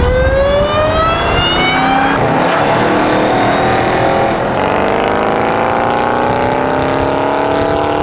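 Dodge Charger Hellcat's supercharged V8 through its aftermarket valved exhaust, accelerating hard. The engine note climbs in pitch for the first couple of seconds, then after a gear change about halfway through it climbs again.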